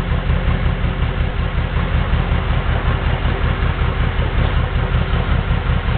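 Mercedes-Benz 300 SEL 6.3's 6.3-litre M100 V8 idling steadily with an even, low pulsing beat.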